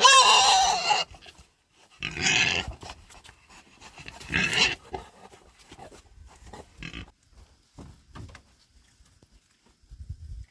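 Pigs squealing: a loud, high-pitched squeal about a second long at the start, two more about 2 and 4.5 seconds in, then fainter squeals.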